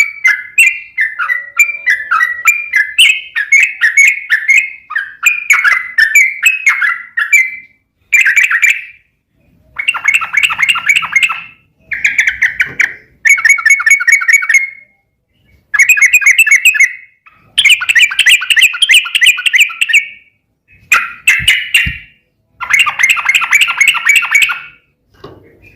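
Yellow-vented bulbul (trucukan) singing loud, rapid chattering phrases, unbroken for the first eight seconds, then in bursts of one to two seconds with short gaps between.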